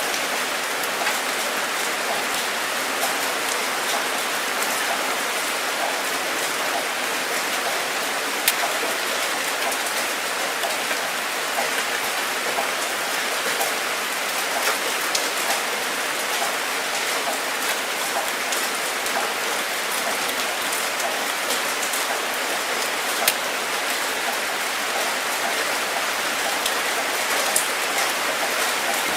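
Steady rain falling, a constant hiss with scattered individual drops striking close by as sharp ticks.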